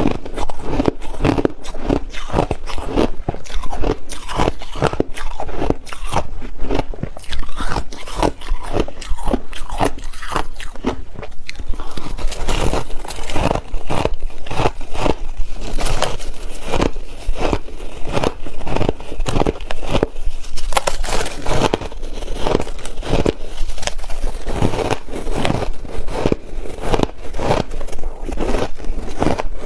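Ice being bitten and chewed close to the microphone: a steady run of sharp, crackly crunches, several a second.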